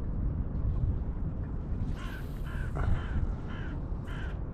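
A bird calling in a series of about five short calls, evenly spaced about half a second apart, starting about two seconds in, over a steady low rumble.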